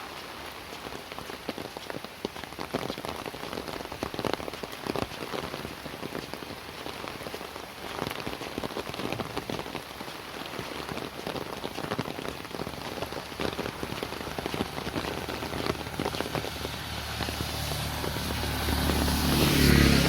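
Rain falling steadily, with dense close pattering drops. Near the end a vehicle's engine and wet tyres swell up as it approaches, loudest just before the end.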